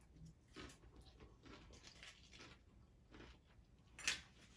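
Faint crunching and chewing of a crunchy hard-shell taco, in irregular small crunches, with one sharper, louder crunch about four seconds in.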